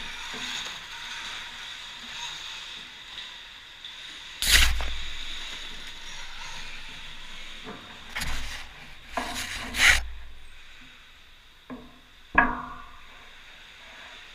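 Electric motocross bike on an indoor dirt track: a steady high electric whine under several loud thuds and rattles. The loudest come about four and a half seconds in and near ten seconds, and a last sharp knock comes about twelve seconds in.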